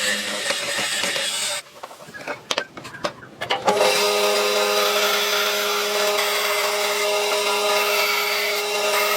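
An electric power tool working wood stops about a second and a half in, and there are a few knocks in the short pause. Then a power tool starts again and runs steadily with a constant whine.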